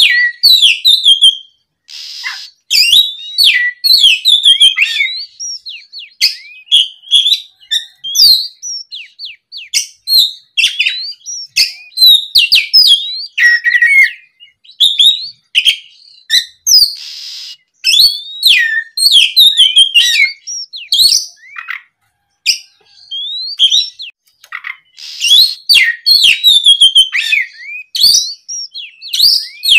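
Oriental magpie-robin (kacer) singing a long, varied song of rapid whistles, slurred notes and chirps, broken by a few short pauses and a few harsh rasping notes.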